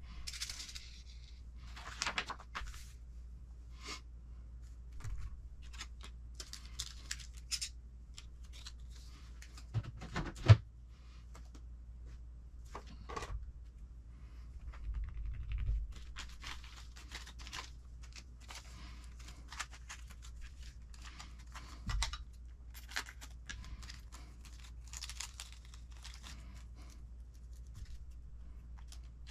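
Plastic kit parts bag crinkling and tearing as it is opened and handled, with scattered small clicks and taps of parts. One sharp click about ten seconds in.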